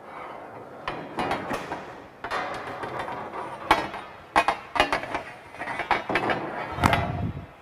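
Galvanized steel pipe being clamped in a tripod chain vise: irregular metal knocks, clinks and rattles from the pipe, chain and tightening handle.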